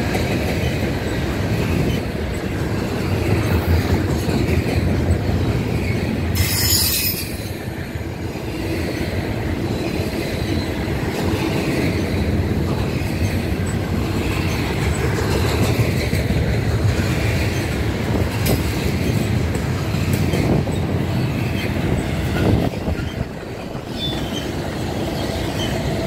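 Double-stack intermodal well cars of a freight train rolling past: a steady rumble of steel wheels on rail with a rhythmic clatter over the rail joints. A brief high-pitched wheel screech sounds about six and a half seconds in.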